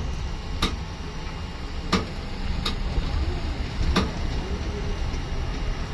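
Inside a moving city bus: a steady low rumble from the engine and road, broken by four sharp rattling knocks at irregular moments as the bus jolts.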